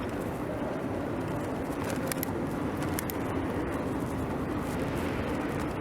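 Steady noise of riding a bicycle along city streets: wind and tyre noise with traffic running, and a few light clicks about two and three seconds in.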